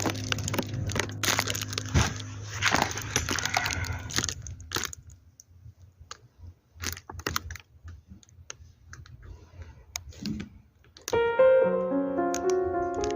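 Rustling and a scattering of sharp clicks and taps, then piano background music coming in near the end.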